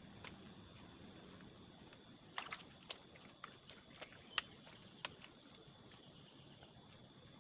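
A quick run of about eight sharp, light knocks and snaps over roughly three seconds, the loudest a little past the middle, over a faint steady high hum.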